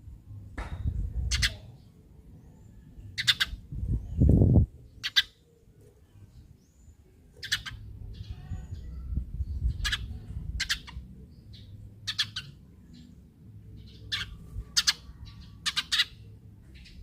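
Eurasian tree sparrow chirping: short, sharp chirps at irregular intervals, some in quick pairs, over a low background rumble. A loud low rumble about four seconds in is the loudest sound.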